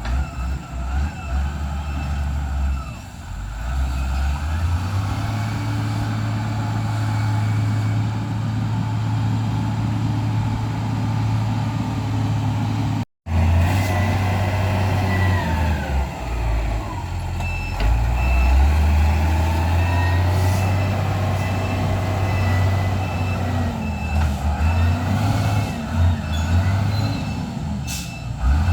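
Heavy diesel engines of road-working machines and trucks running and changing pitch as they rev, with a reversing alarm beeping in a steady rhythm. The sound cuts out for a moment about thirteen seconds in.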